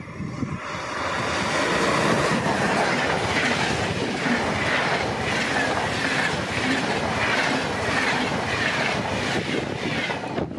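Locomotive-hauled passenger train passing close by: a steady rush of wheels on rail that builds over the first couple of seconds, with a rhythmic clickety-clack about twice a second as the wheels cross rail joints.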